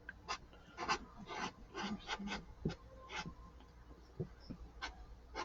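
Felt-tip marker rubbing on paper in short, irregular scratchy strokes while colouring in, faint.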